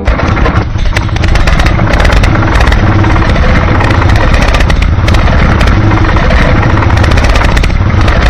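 A motor running steadily and loudly with a fast clattering rattle, starting abruptly.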